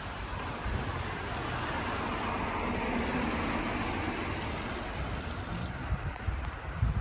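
A vehicle passing, its noise swelling to a peak about three seconds in and then fading, with wind buffeting the microphone near the end.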